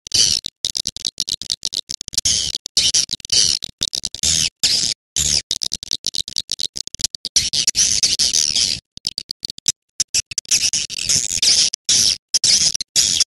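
Recorded swiftlet calls played as a lure sound: rapid, high-pitched chattering chirps and twitters in quick runs, broken by many brief silent gaps.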